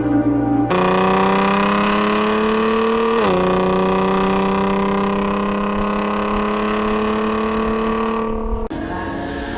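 Car engine and exhaust under hard acceleration, the note climbing slowly, then dropping sharply at an upshift about three seconds in and climbing again. It starts suddenly and stops abruptly near the end.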